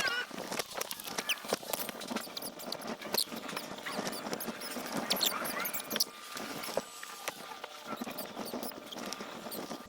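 Irregular scraping, rustling and sharp clicks of hands working in a Toyota Land Cruiser Prado's engine bay to free a stray cat caught in it, with the tail of the cat's wavering cry right at the start.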